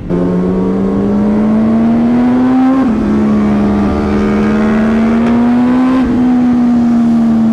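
Sport motorcycle engine under steady acceleration, its pitch climbing slowly and then dropping sharply at an upshift about three seconds in and again about six seconds in, before holding steady.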